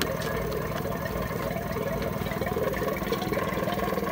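A 2000 Toyota Echo's engine idling steadily with its newly installed AC compressor engaged and pumping, drawing in refrigerant as the system is charged.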